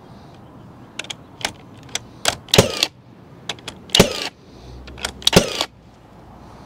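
Irregular sharp knocks and jangling clatter as a 2x4 and tools are handled during deck framing; the three loudest strikes come about a second and a half apart.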